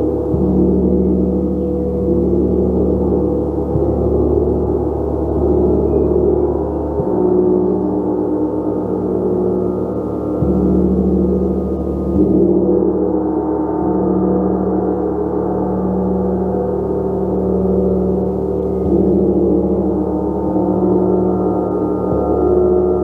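Gong played continuously, a sustained wash of many overlapping ringing tones; the deep hum beneath shifts every few seconds as the gong is struck again.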